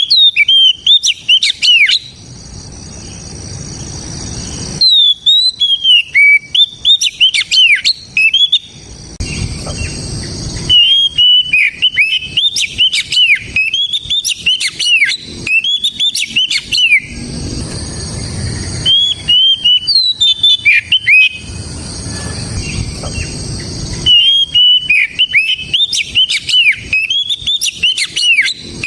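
Oriental magpie-robin singing loudly: bouts of rapid, sharply slurred whistled notes, about five in all, separated by pauses of a couple of seconds.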